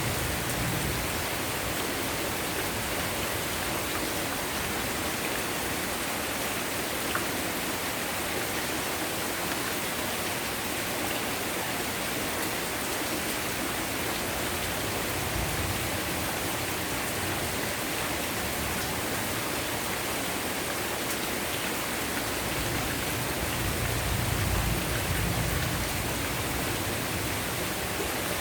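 Heavy rain falling steadily, an even hiss. A low rumble swells briefly a few seconds before the end.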